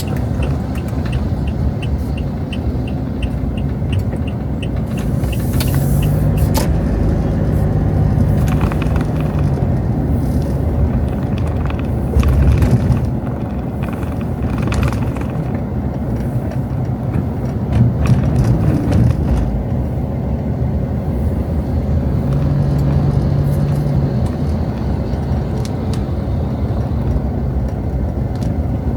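Street traffic: cars passing with a steady low engine rumble that swells and fades as vehicles go by, a light rapid ticking in the first few seconds and a short hiss about six seconds in.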